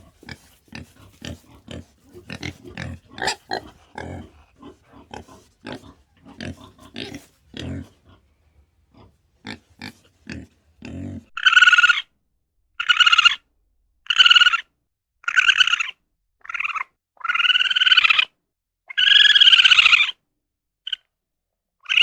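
Farm animals calling: first a run of short, soft grunts, then about halfway through a series of loud, high, arched calls, each about a second long and repeated roughly once a second.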